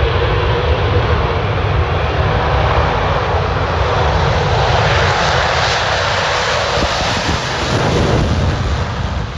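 Military aircraft engine roar as a plane passes at an air show, loud throughout, swelling in the middle and fading away near the end.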